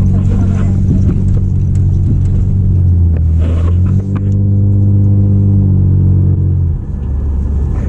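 Car engine running, heard from inside the cabin as a steady low hum that drops in pitch near the end as the car eases off.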